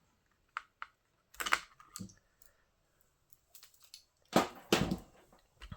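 Scattered light clicks and knocks of small metal RC parts being handled as a brushless motor is turned and offered up to its motor mount, with two louder knocks a little past halfway.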